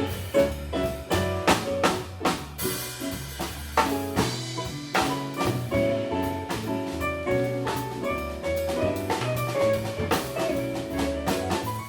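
Jazz band music: a drum kit playing a busy beat with many hits a second, over bass and chord lines.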